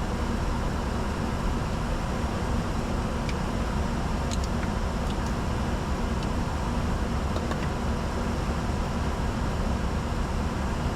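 Steady in-flight cockpit noise of a Bombardier Challenger 605 business jet: a constant rush of air over the airframe with a low rumble and hum, and a few faint ticks a few seconds in.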